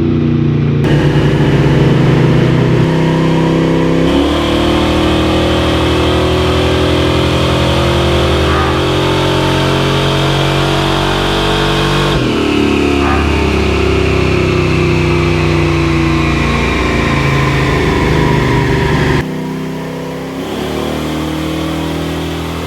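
Ford Ranger's swapped 5.3-litre V8 running at full throttle on a dyno pull. Its pitch steps down abruptly twice, about four and twelve seconds in, as it shifts gears. The throttle closes about three seconds before the end and the engine drops back to a quieter run.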